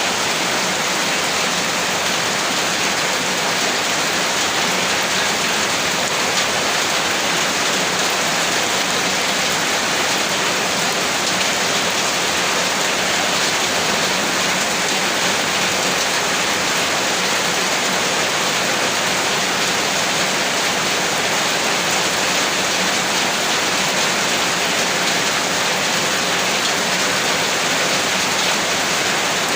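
Heavy rain falling steadily: a dense, unbroken hiss of rain on surfaces.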